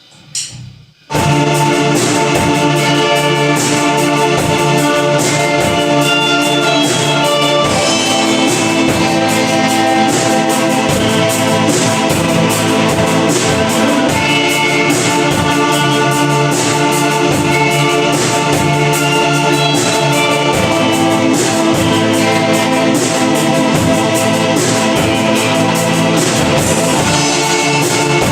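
Live band music: after a few separate hits, the full band comes in loud about a second in, with brass over a steady drum beat.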